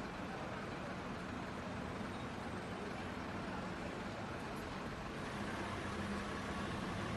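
Steady low engine rumble with a faint hum, without sudden changes.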